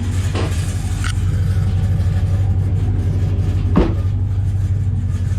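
Pickup truck's engine running steadily with a deep, loud exhaust rumble, the sound its owner calls mean. A short sharp knock comes about four seconds in.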